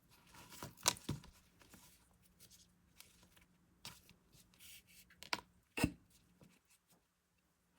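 Hands working yarn and a small crocheted piece close to the microphone: soft scattered rustles with a few sharp clicks, the loudest about a second in and twice in quick succession near six seconds.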